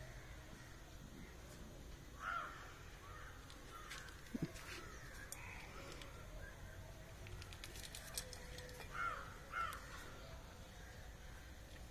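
Faint bird calls, three short ones, one a couple of seconds in and two close together near the end. A cat eats from a metal bowl, with a few soft clicks.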